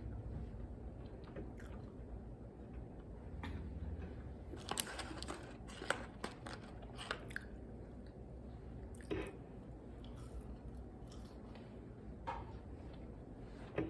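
Close-up chewing and biting of a burger and french fries, with scattered short clicks and crinkles, thickest about five to seven seconds in as fries are taken from their paper wrapper.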